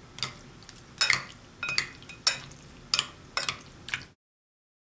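A utensil stirring seasoned raw chicken cubes in a dish, clinking against it about once or twice a second; the sound cuts off to dead silence about four seconds in.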